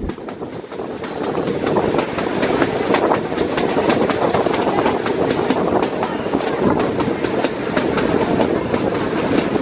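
An Indian Railways train running along the track: a steady rumble with a quick, uneven run of clicks as the wheels pass over rail joints. It grows louder over the first two seconds and then holds steady.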